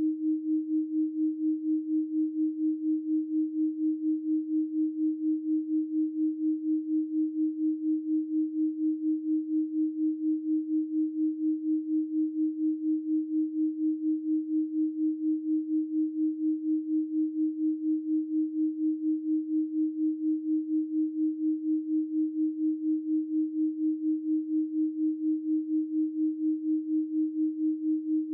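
A 312 Hz pure sine tone held steady and unchanging, pulsing evenly about four times a second.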